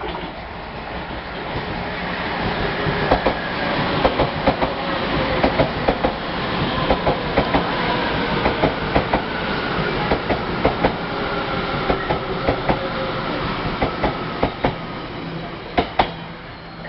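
Taiwan Railways train passing at speed, its wheels clacking over the rail joints. The sound builds, holds and fades away, with faint falling whines.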